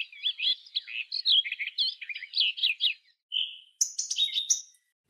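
Birdsong: a fast run of varied warbled notes that swoop up and down, then a short steady whistle and a few higher, thinner notes, stopping shortly before the end.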